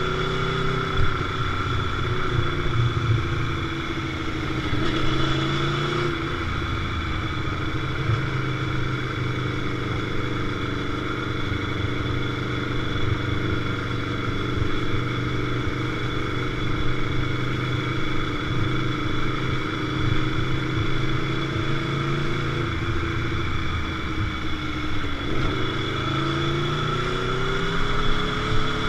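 Motorcycle engine running under way at a fairly steady cruising speed, its pitch drifting gently; about 25 seconds in the revs dip briefly and then climb again.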